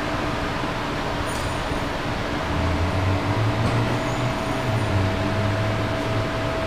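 Motorcycle rear wheel rim spinning on a stand for a trueness check: a steady whirring hum, with a low rumble swelling in the middle.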